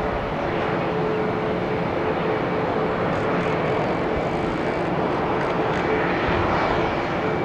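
Jet airliner's engines running steadily: a dense rushing noise with a constant whine held through.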